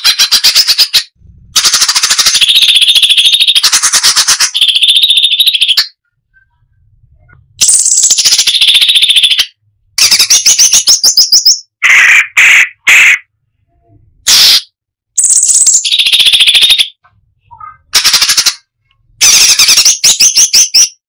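Striated bulbul (cucak cungkok) singing in a string of loud, high-pitched bursts. Each burst is a fast, rattling run of rapidly repeated notes ('tembakan rapat', dense shots), broken by short silent gaps.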